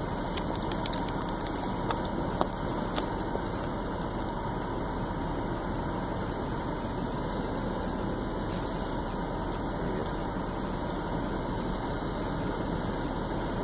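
Car engine running, heard from inside the cabin as a steady hum, with a few faint clicks in the first few seconds.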